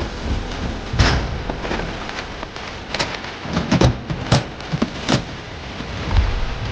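Film sound effects: a steady hissing rumble with about five sharp cracks or thuds, the strongest about a second in and between three and five seconds in.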